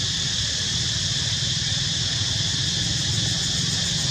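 Steady outdoor ambience: a continuous high insect drone with a low steady rumble underneath.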